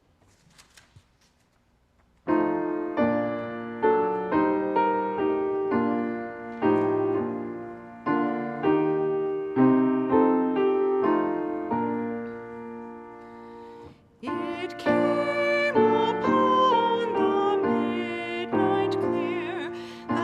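Near silence for about two seconds, then a piano playing a hymn in slow chords that ring and fade. The playing breaks off briefly about two-thirds of the way through, then carries on.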